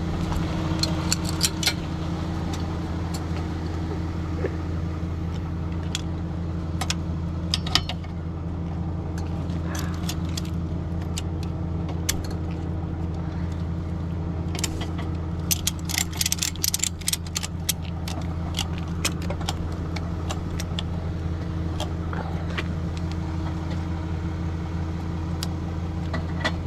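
A vehicle engine idling steadily, with scattered sharp metallic clinks and jangles over it, in clusters about a second in, near eight seconds and around sixteen seconds.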